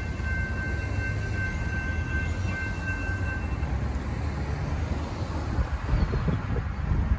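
Freight train rolling past a grade crossing: a steady low rumble of railcars on the rails, with a thin high ringing tone that stops about three and a half seconds in. Wind gusts buffet the microphone near the end.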